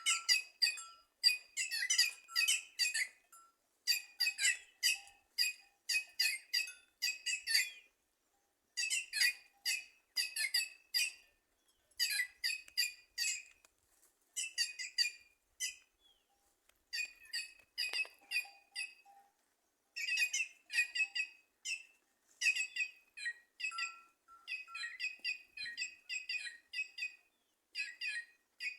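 White-naped jays (cancão) calling in the trees: quick runs of short, sharp, repeated notes, grouped in phrases with short pauses between them.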